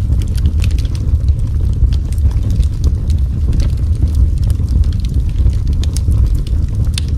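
Fireplace fire burning: a steady low rumble with frequent sharp crackles and pops throughout.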